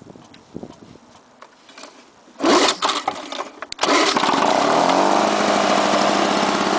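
1986 Lawnboy 5126 mower's two-stroke F-series engine being pull-started from cold. A loud rattle of the pull comes about two and a half seconds in, the engine catches about four seconds in, revs up and settles into a steady run.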